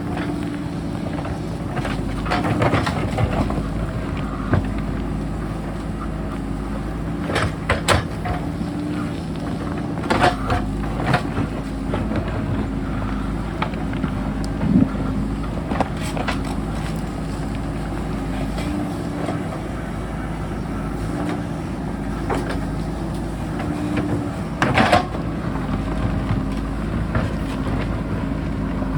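JCB backhoe loader's diesel engine working, its pitch rising and falling with the load, with scattered sharp clanks and knocks from the bucket on rock.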